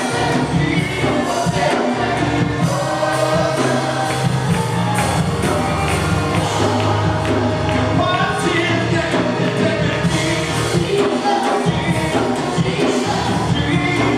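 Live worship music: several voices singing together over a band with bass and drums keeping a steady beat.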